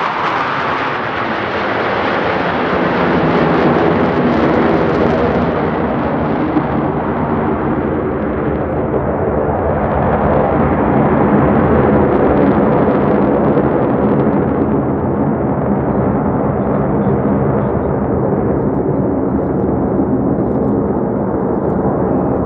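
Loud, continuous jet engine noise from Blue Angels F/A-18 Super Hornets flying past. The pitch drops as they pass right at the start, then a long rumble follows as they move away.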